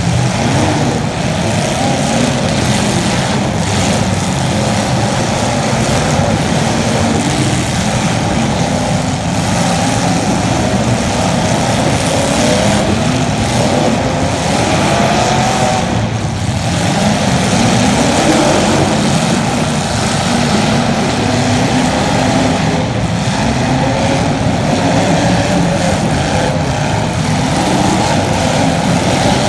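Several small racing engines running hard, their pitch rising and falling over and over as the cars accelerate and back off around the track.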